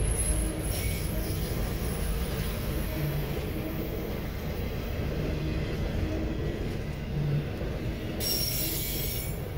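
Autorack freight cars rolling past: a steady low rumble of steel wheels on rail, with a brighter hiss near the end.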